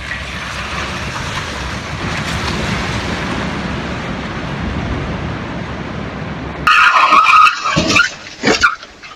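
Steady road noise of a car driving, then about seven seconds in a sudden loud tyre skid, followed by a few short sharp loud sounds.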